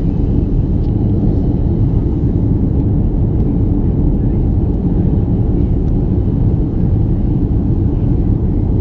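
Steady low rumble of an Airbus A330 airliner's engines and airflow, heard from inside the passenger cabin.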